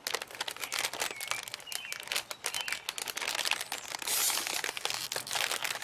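Crinkly plastic snack bag being handled and pulled at, a dense, irregular crinkling that grows louder about four seconds in.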